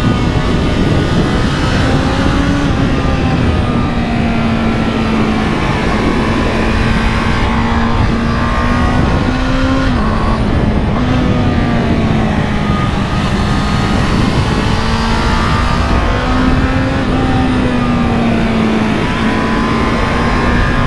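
Honda CB650R's inline-four engine running under way at a fairly steady pitch that drifts gently up and down, over a heavy rush of wind noise. About ten seconds in, the note briefly breaks and resumes, as at a gear change.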